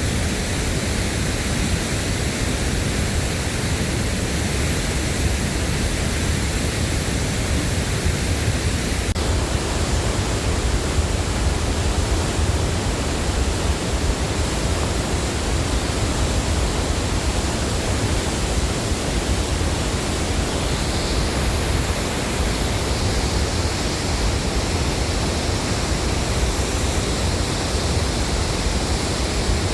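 Steady rushing water of a large waterfall, the Tännforsen rapids on the Åreälven, an even wash of noise with a heavy low rumble. Its tone shifts slightly about nine seconds in.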